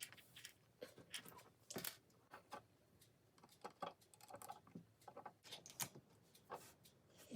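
LEGO plastic pieces clicking and tapping as they are handled and sorted, in faint, irregular taps several times a second.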